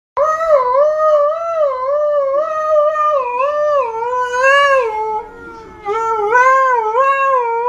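A dog howling: one long, wavering cry whose pitch rises and falls over and over. It sinks and weakens for a moment about five seconds in, then picks up again.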